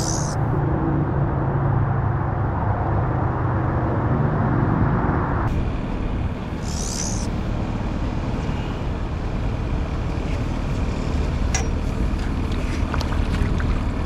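An engine running steadily while under way, with a constant rush of wind and travel noise and a couple of brief hissing swishes.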